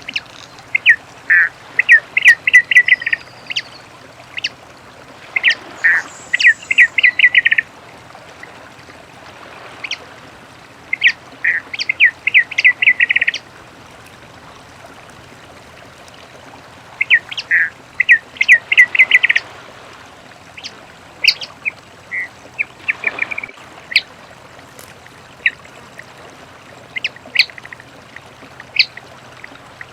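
Many-colored rush tyrant (papa-piri) singing: a couple of falling notes, then a fast run of short chips, repeated about every five to six seconds. Scattered single notes follow in the second half.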